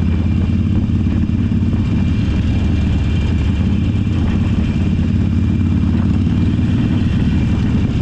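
Motorcycle engine running steadily under way at an even, unchanging pace, with a low, deep tone.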